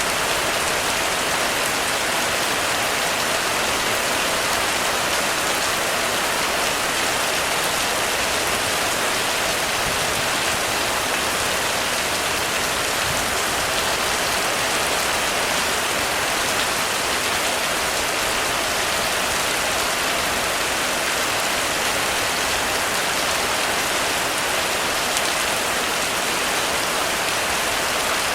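Heavy rain falling steadily on a roof, a dense even hiss of drops without letup.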